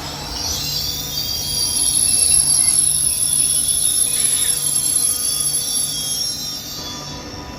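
A train at the station giving a high-pitched metallic squeal from its wheels on the rails, swelling a second or so in and fading near the end.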